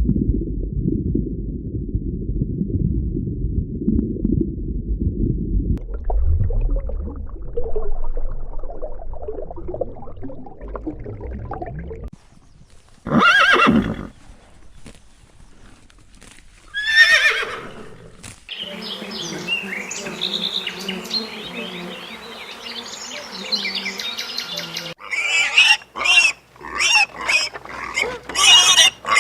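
A string of different animal sounds edited one after another: a low rumbling first, then two loud pitched calls a few seconds apart, the second falling in pitch like a horse's whinny, then a busy stretch of mixed calls and rapid choppy calls near the end.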